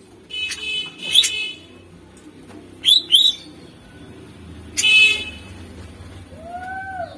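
Greater green leafbird (cucak ijo) singing in short separate outbursts: a buzzy, harsh phrase, two quick sharp chirps, then another harsh burst, with short pauses between. A soft, lower arched whistle comes near the end.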